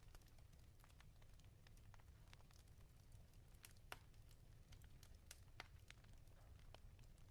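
Wood fire crackling in a fireplace, faint: scattered small pops and snaps over a low steady rumble, with a sharper pop about four seconds in.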